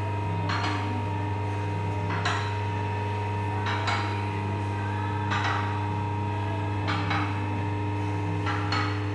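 Sharp metallic knocks, about one every second and a half and sometimes doubled, over a steady low hum.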